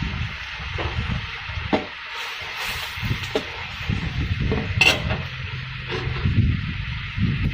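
Stir-frying in a wok: a spatula stirring and scraping through sizzling sauce and vegetables over a steady low rumble, with a few sharp clinks of metal on the pan, the loudest about five seconds in.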